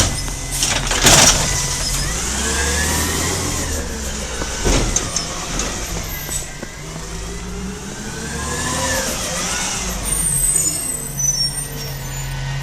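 Garbage truck running, its engine hum joined by tones that rise and fall in pitch, with a few sharp knocks about a second in.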